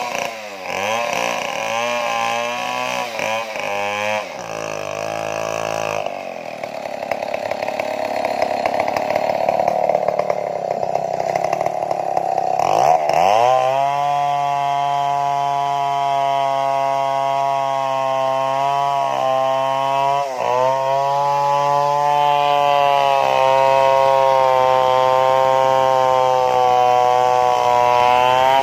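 Stihl chainsaw revved in short bursts, then running for several seconds at a lower, rougher pitch, then held at high revs for a long stretch with two brief dips, as it cuts into a large tree trunk.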